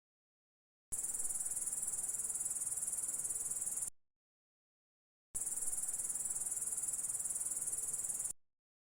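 A high, steady insect trill, heard as two separate three-second stretches with dead silence before and between them.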